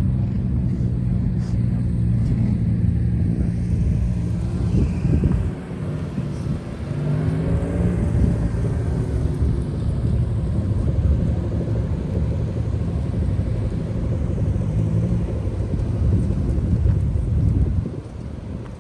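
Car engine idling with a steady low hum for the first few seconds, then a continuing low engine rumble, with a brief rise in pitch about seven seconds in as an engine revs.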